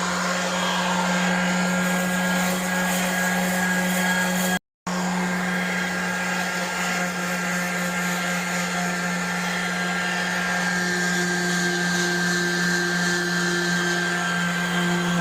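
Electric rotary sanding tool running steadily at full speed, a constant motor whine as it sands rust off a metal go-kart seat. The sound cuts out completely for a split second a little under five seconds in.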